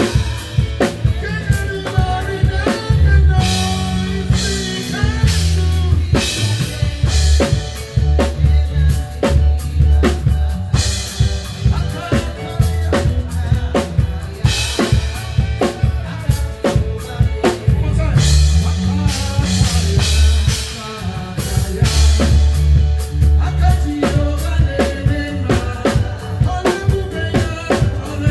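Live band playing an instrumental passage: a drum kit with steady kick and snare hits and cymbal washes every few seconds, over a sustained bass line and chords.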